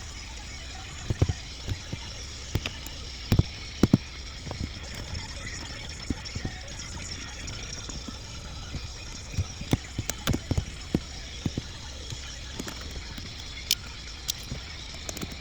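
Irregular clicks and knocks of plumbing fittings and tools being handled, over a steady low hum, with clusters of sharper knocks a second or so in and again around ten seconds in.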